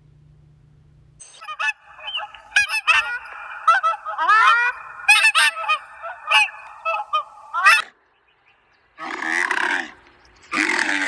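A group of birds honking, many calls overlapping for several seconds before stopping abruptly. A different animal call starts near the end.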